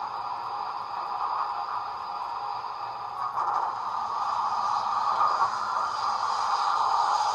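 Steam locomotive sound from the DCC sound decoder of a 00 gauge model Black 5, played through the model's small speaker: a steady, noisy running sound that grows louder about three and a half seconds in.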